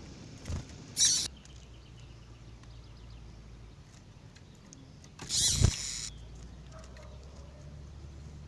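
Female double-collared seedeater (coleiro) calling: a short high call about a second in, faint chirps after it, and a longer, louder call about five seconds in.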